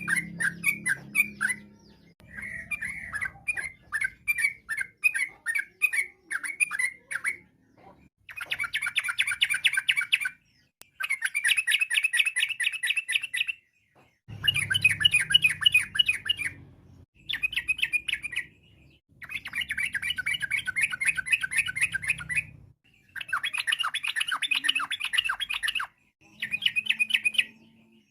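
Yellow-vented bulbul (trucukan) singing: first a string of separate chirps, about two a second, then a run of fast, rapid-fire chattering phrases of two to three seconds each, broken by short pauses.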